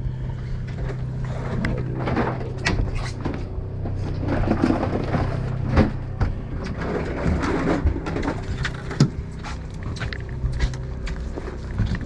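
A boat's engine running steadily, a low hum that fades out near the end, with scattered knocks and clatter of gear handled on deck.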